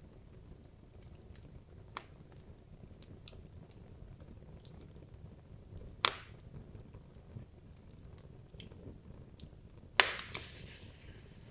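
Wood logs burning in a fireplace: a low steady rush of flame with scattered small crackles, and two loud sharp pops about six and ten seconds in, the second trailing off in a brief hiss.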